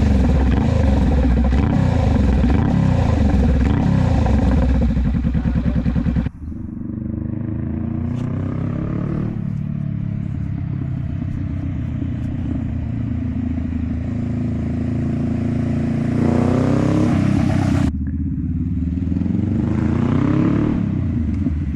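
Honda Rebel 500's parallel-twin engine running through a Vance & Hines exhaust, revved up and down repeatedly. About six seconds in the sound drops suddenly to a steadier, lower idle, with a few throttle blips further on.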